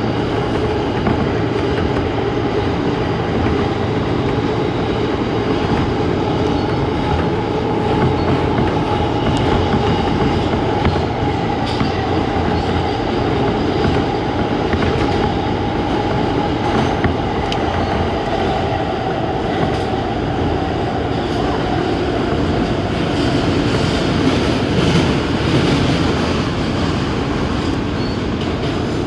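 New York City Subway A express train running at speed: a steady rumble of wheels on rails with scattered rail clicks and a faint wheel squeal tone that dies away about two-thirds of the way through.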